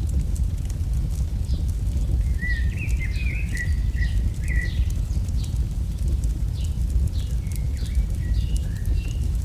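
AI-generated campfire ambience: a fire crackling with frequent small pops over a steady low rumble. Birds chirp in a short run of quick calls in the middle, with a few more near the end.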